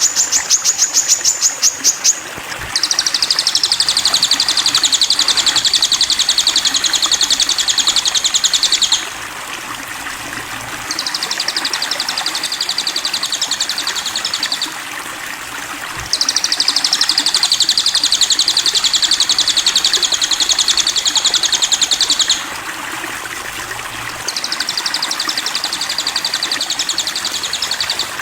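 Sogon bird song: long, very rapid high trills, each lasting several seconds, four in a row with short pauses between them. Under them runs a steady rush of running water.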